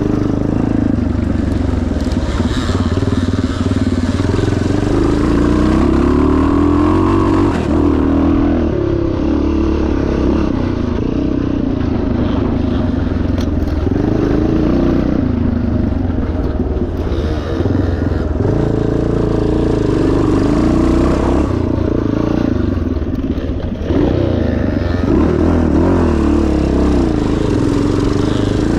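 1977 Yamaha TT500's single-cylinder four-stroke engine running hard off-road, its revs rising and falling over and over as the throttle opens and closes, with some clatter from the bike over rough ground.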